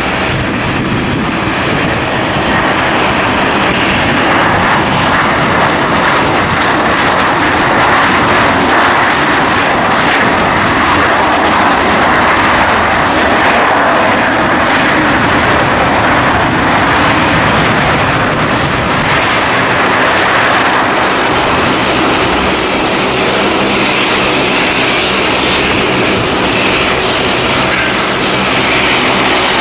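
Airliner engines running loud and steady, a dense roar with a thin high whine over it.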